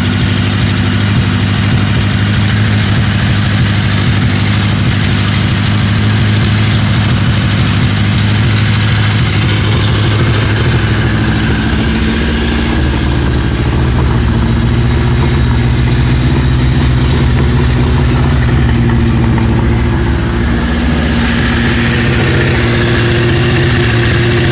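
A vehicle engine idling steadily just after being started with the key, showing that it runs. The engine note shifts slightly about halfway through.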